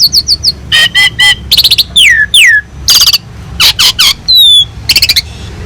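Asian pied starling (jalak suren) singing a rapid, varied song of short whistles, harsh chattering notes and downward-sliding calls.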